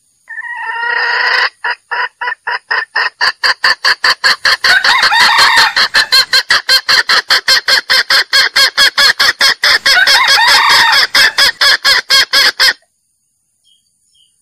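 Male jungle fowl calling: a short call of about a second, then a long, fast, even run of loud clucks, about four a second, that stops abruptly near the end.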